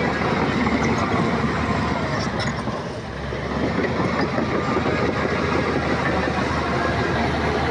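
Shantui crawler bulldozer running under load, its steel tracks clanking and rattling steadily, with a brief dip in loudness about three seconds in.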